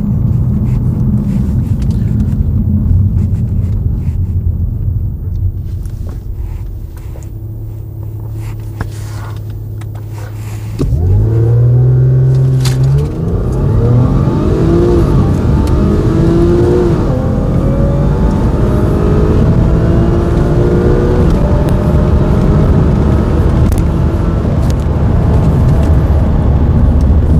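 Audi 3.0T supercharged V6 heard from inside the car's cabin. It runs at a steady cruise at first; then, about eleven seconds in, it goes to full throttle, and its pitch climbs several times as it pulls hard up through the gears.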